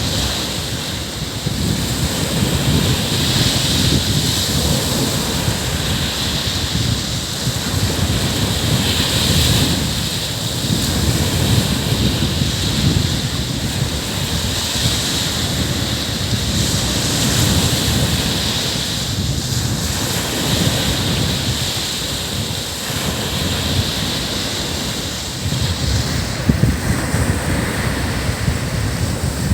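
Ocean waves breaking and washing up a beach in a steady roar that swells and eases every few seconds, with wind buffeting the microphone in low rumbles.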